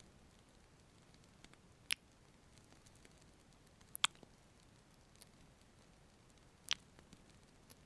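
Close-miked kissing sounds: three soft lip smacks about two seconds apart, one of them a quick double, with faint small ticks between.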